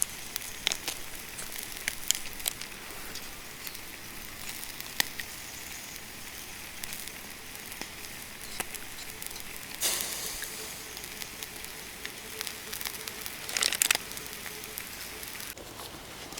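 Wood campfire crackling, with scattered pops and snaps over a steady hiss, and two louder flurries of crackling, one partway through and one near the end.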